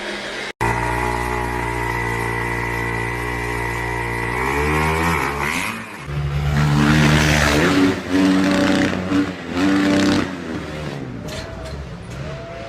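Motorcycle engine running at a steady pitch, then revving up and down with shifts in pitch like gear changes, louder in the middle of the stretch.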